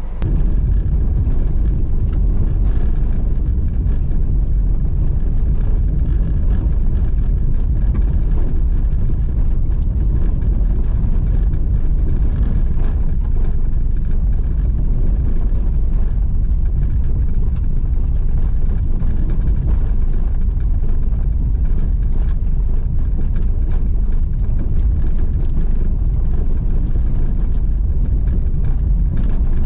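Car driving on a rough unpaved road: a steady, loud low rumble of tyres and running gear, with small clicks and knocks throughout. It jumps louder right at the start.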